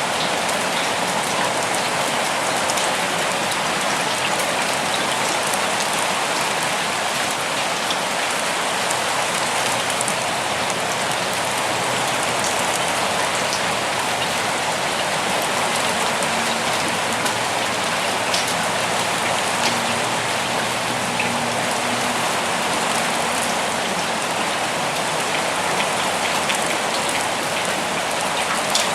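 Steady rain falling in a forest, an even hiss with scattered single drops tapping.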